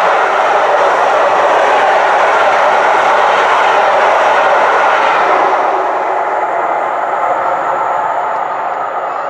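Rake of passenger coaches on a steam-hauled train passing close at speed: a loud steady rush of wheels on rail that fades from about five and a half seconds in as the last coach goes by and the train draws away.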